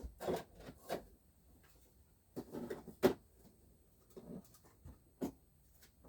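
Scattered handling knocks and clicks of slot cars and their storage being moved and put away, with one sharper click about three seconds in.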